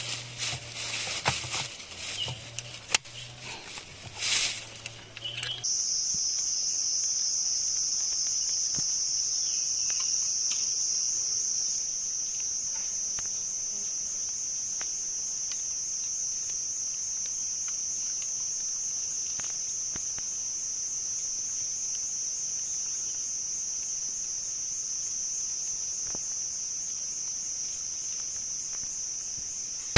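Scattered rustles and clicks for the first few seconds, then a steady, high-pitched insect drone sets in about six seconds in and holds unbroken.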